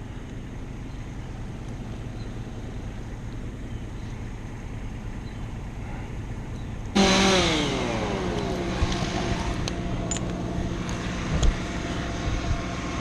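Chainsaw idling, then throttled up sharply about seven seconds in and running at high revs, its pitch sagging as the chain bites into the wood.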